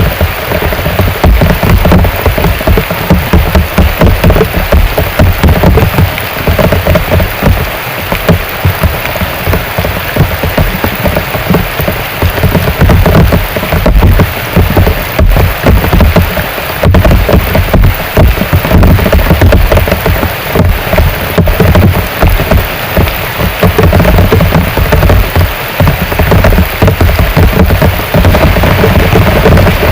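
Heavy rain falling steadily and loudly, a dense hiss of rain with many close drops hitting.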